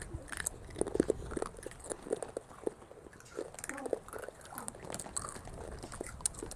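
Crispy basreng (fried meatball chips) being bitten and chewed close to the microphone: a run of irregular crisp crunches.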